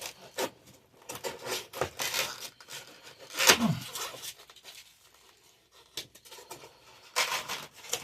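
Irregular scraping, rustling and tearing of building debris being handled and pulled loose: torn-out ceiling board and insulation. The strokes come unevenly, with the loudest about three and a half seconds in and a quieter stretch a little past the middle.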